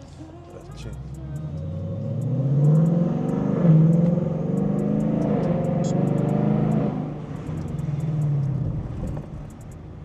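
Car engine accelerating hard, its pitch climbing with a brief dip about three seconds in, as at a gear change, then holding high before easing off and dying away near the end.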